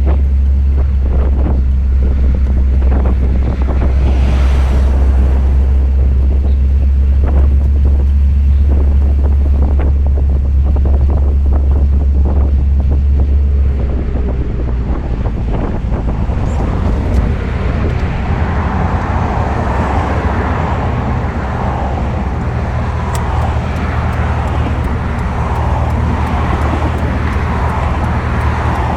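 1932 Ford Phaeton hot rod's Chevy truck engine running steadily with a deep, even exhaust note, with wind on the microphone. About halfway through the deep note gives way to a rougher, broader sound that carries on to the end.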